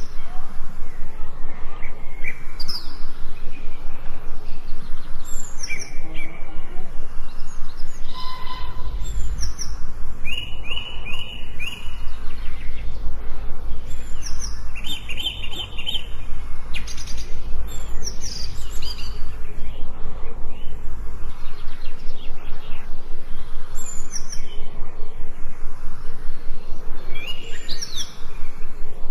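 Forest birds chirping and singing, with short falling whistles and trills every few seconds, over a steady fast pulsing of about four beats a second. A low rumble runs through the middle stretch.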